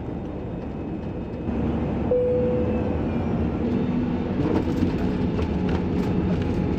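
Cabin noise inside an Airbus A320 airliner: a steady low rumble that grows louder about a second and a half in, with a few faint steady tones over it.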